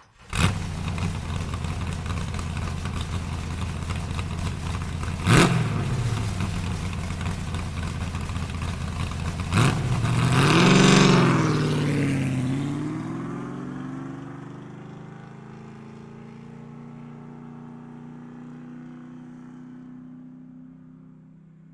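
A vehicle engine running, with two sharp knocks about five and nine and a half seconds in. About ten seconds in it revs up and back down, then runs on at a lower, steady pitch and fades out gradually.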